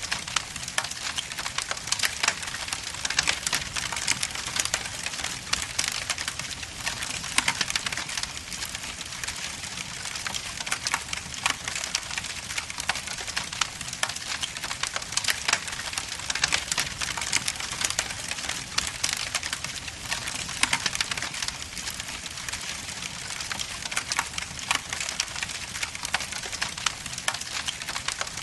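Wood logs burning in a fireplace, crackling and popping continuously with many sharp snaps over a steady hiss.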